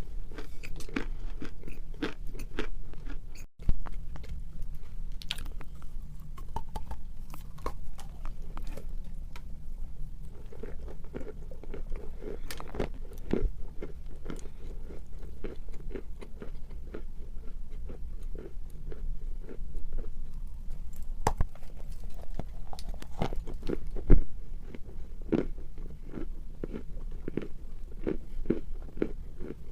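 Dry edible clay being bitten and chewed close to the microphone: a dense, irregular run of crisp crunches, with a brief break about three and a half seconds in and one louder crunch past the twenty-second mark.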